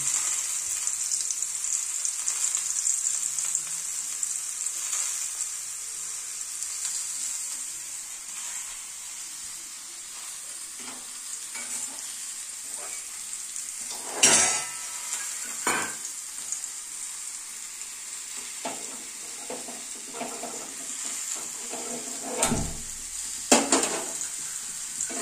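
Dried raw mango slices frying in mustard oil in a steel pan, a steady high sizzle. A few sharp clicks and knocks come around the middle and twice near the end.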